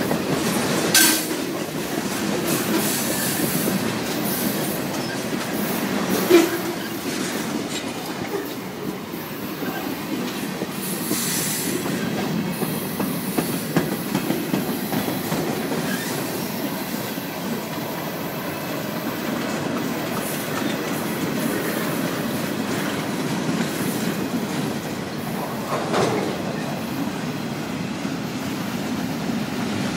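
Union Pacific freight train's tank cars and boxcars rolling past close by: a steady rumble and clatter of steel wheels on the rails. A few sharp clanks stand out, the loudest about six seconds in.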